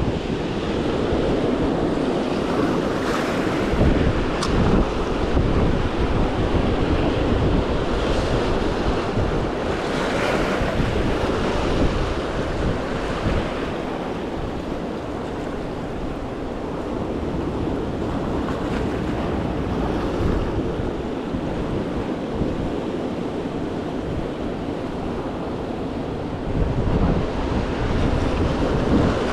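Ocean surf washing in, rising in swells every several seconds, with wind buffeting the microphone.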